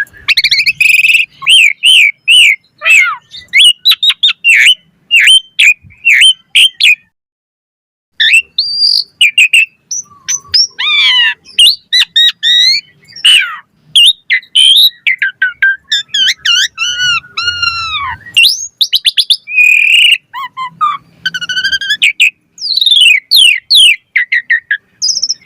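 Asian pied starling (jalak suren) singing loud and fast: a busy run of varied whistles, sharp chirps, rising and falling glides and quick chattering trills, broken by a pause of about a second near the first third.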